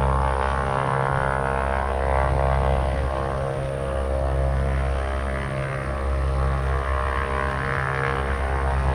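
Aircraft engines running steadily at low power: a constant hum of several steady tones over a low rumble, with no change in pitch.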